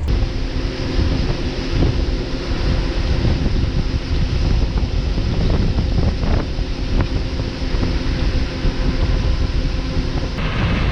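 Farm harvest machinery engine running steadily under load, with wind buffeting the microphone and a few brief knocks. The sound changes abruptly about ten seconds in.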